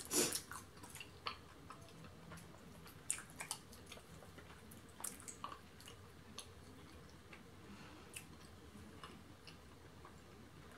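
Quiet chewing and mouth sounds while eating, with scattered short clicks and scrapes as a plastic fork works through the food.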